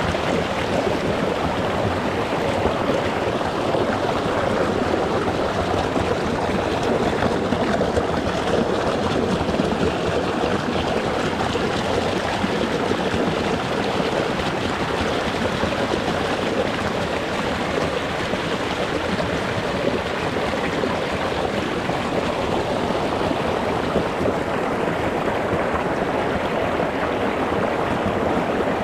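A rocky mountain stream flowing and splashing over stones, close up: a steady rush of water with small gurgles.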